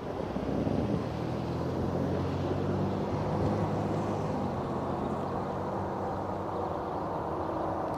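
High-hood diesel freight locomotive's engine running with a steady low drone, swelling a little about a second in.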